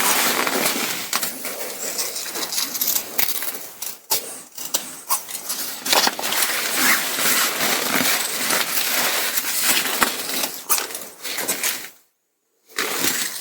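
Ripstop nylon wing fabric and a repair patch rustling and crinkling as they are handled and trimmed, with many small clicks. The sound cuts out for a moment near the end.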